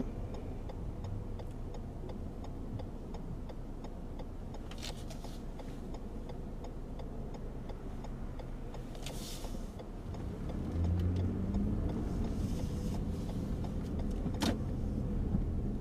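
Car cabin with steady engine and road rumble and a turn signal ticking about twice a second. The ticking stops about ten seconds in, and then the engine rumble grows louder as the car pulls away.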